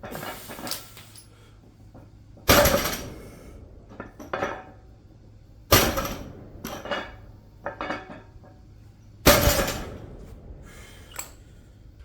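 A loaded barbell's weight plates clanking against the floor on each deadlift rep, three loud clanks about three seconds apart, each followed by smaller rattles of the plates settling.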